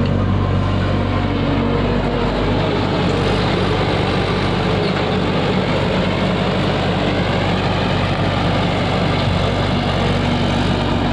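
Tractor engine running steadily at a constant speed, a low even hum.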